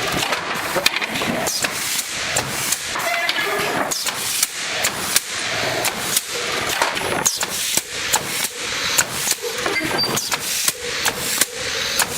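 Automatic pallet nailing machine driving nails into pallet boards: rapid, irregular sharp bangs, a few each second, over steady machinery noise.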